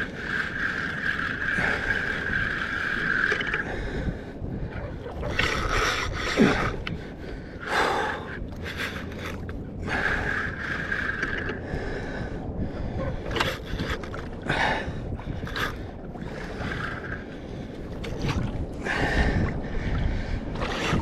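Fishing reel on a kayak whirring in spells while a hooked kingfish is fought: a steady whirr for the first few seconds, again around ten seconds in and near the end. Water sloshing and sharp knocks on the kayak come in between.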